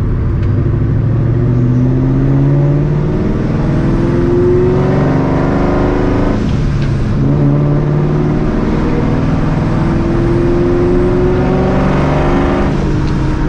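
Supercharged 4.6-litre two-valve V8 of a 2004 Ford Mustang GT, running through long-tube headers, a catless X-pipe and a Borla ATAK cat-back exhaust, pulling under load. The engine note rises steadily, drops at a shift about three seconds in, and dips briefly again about six and a half seconds in before climbing through a long final pull that falls away near the end.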